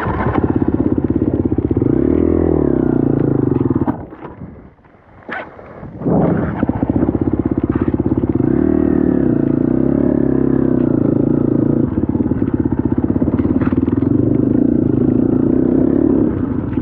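Dirt bike engine revving up and down under throttle. It drops away for about two seconds around the middle, then picks up sharply again.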